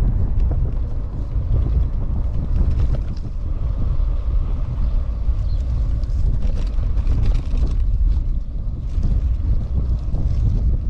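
Wind buffeting the microphone: a steady, loud low rumble that rises and falls, with faint crackles above it.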